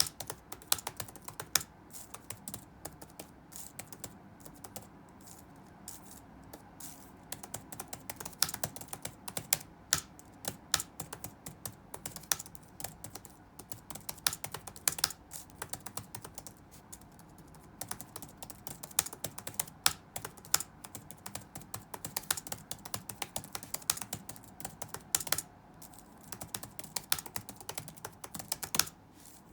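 Computer keyboard being touch-typed in quick, irregular runs of key clicks, with brief pauses between bursts.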